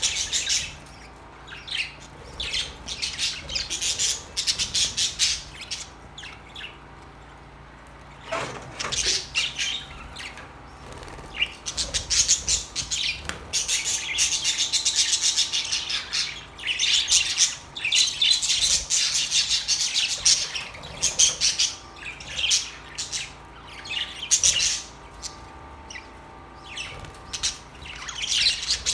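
A colony of budgerigars chattering and warbling in bursts of rapid, high chirps and squawks. The bursts are separated by short lulls.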